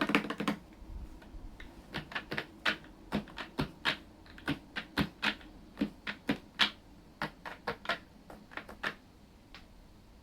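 Asus ROG Strix Scope RX mechanical keyboard with ROG RX Red optical switches: a quick run of keystrokes that stops about half a second in, then single, separate presses of its larger stabilized keys, about two a second, ending near the end.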